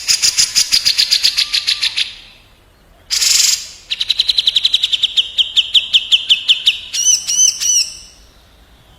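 Cucak jenggot (grey-cheeked bulbul) and kapas tembak birds calling against each other. First comes a fast rattling trill of rapid high notes for about two seconds, then a short harsh burst. After that a long run of quick down-slurred notes follows, ending in a few looping whistles.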